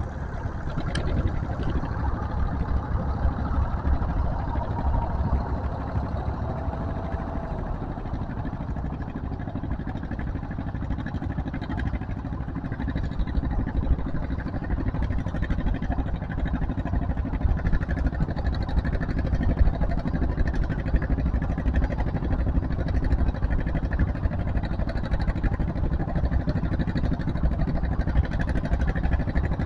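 Tractor engine running steadily at a tractor pull, a continuous low rumble that grows a little louder in the second half.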